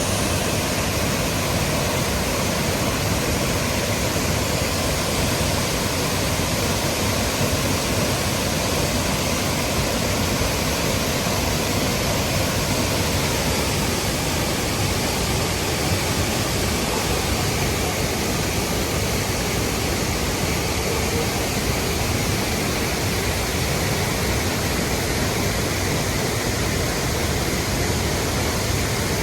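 Waterfall: falling water crashing steadily, a loud, even rushing noise with no change.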